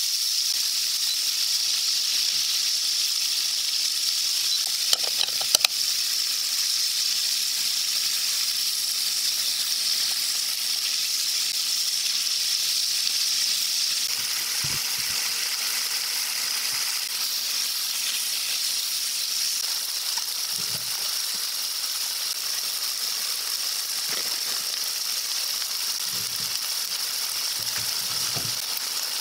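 Pork belly and vegetables sizzling steadily as they fry in a frying pan, stirred with chopsticks. A few sharp clicks come about five seconds in.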